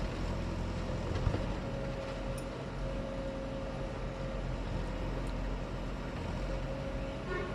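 Engine of heavy earthmoving machinery running steadily, an even low hum with a constant higher tone over it.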